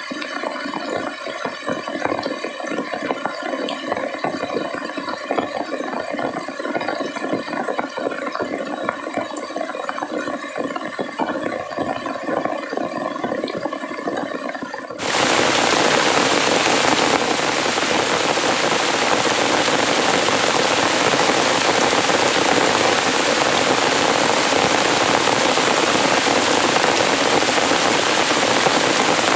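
A steady rattling hum with several fixed tones, then an abrupt switch about halfway through to heavy rain pouring down as a dense, even hiss.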